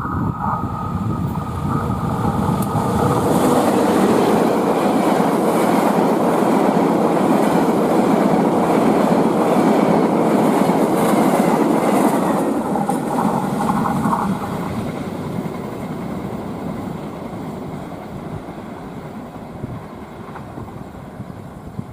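Passenger train passing at high speed on straight track. The rumble and wheel noise build over the first few seconds, stay loud for about ten seconds, then fade as it moves away. A few steady high tones are heard near the start.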